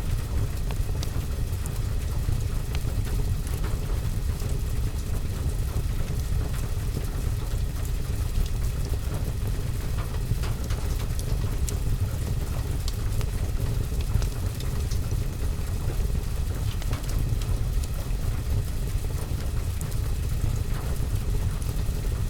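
Fireplace fire and rain ambience: a steady low rumble with scattered faint sharp ticks and crackles.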